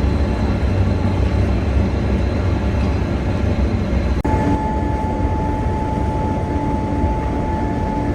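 Steady running of metalworking factory machinery with a heavy low rumble. About four seconds in it changes abruptly to a different machine sound with a steady high-pitched hum over it.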